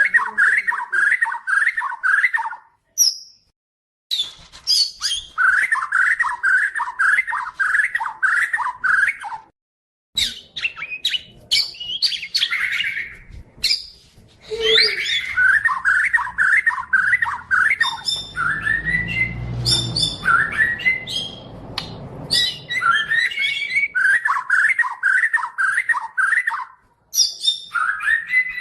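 White-rumped shama (murai batu of the Medan type) singing: fast runs of rapidly repeated notes, broken by short pauses, alternating with varied whistled and harsh phrases. A low rumble sits under the song about two-thirds of the way through.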